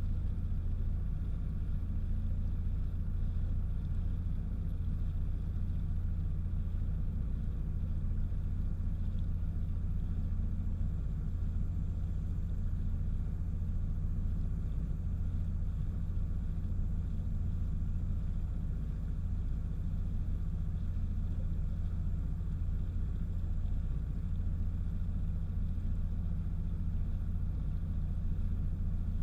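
Steady low engine rumble that holds even throughout, with no change in pitch or level.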